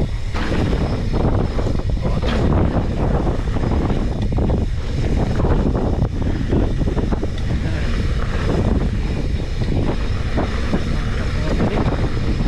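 Wind buffeting an action camera's microphone on a fast downhill ride, a steady loud rush with many short irregular rattles and scrapes from the ride over rough ground.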